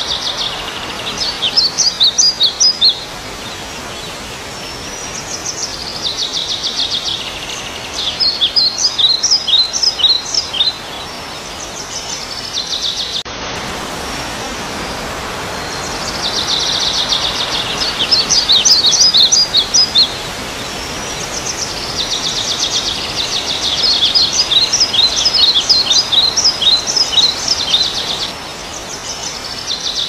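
A bird singing the same phrase about four times, a buzzy trill followed by a run of quick chirps, over a steady hiss.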